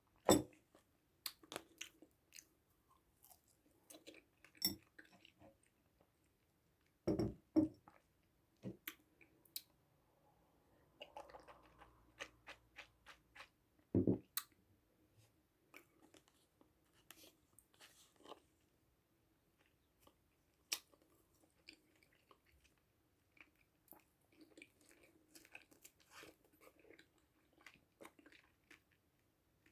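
A person biting and chewing food close to the microphone: sharp, loud bites right at the start, twice about seven seconds in and once about fourteen seconds in, with softer chewing clicks in between.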